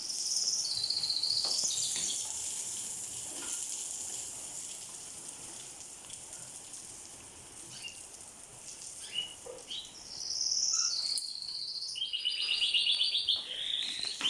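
Heavy rain hissing steadily, with a small songbird chirping near the start and singing a rapid trill near the end.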